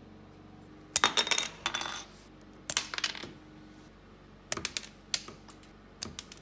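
Small pieces of silver clinking against each other and a hard surface, in four quick clusters of sharp, ringing metallic clicks.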